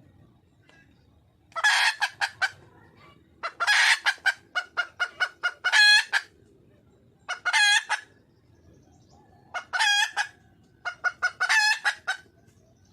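A red junglefowl hen cackling in about five bouts: each is a run of quick, sharp clucks, several ending in a longer drawn-out note. This is the call the uploader describes as a wild hen calling for a male.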